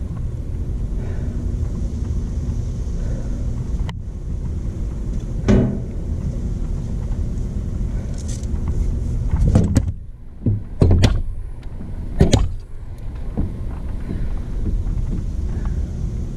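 Stump grinder's 13 HP single-cylinder Honda engine running steadily, with a few short, louder surges in the middle.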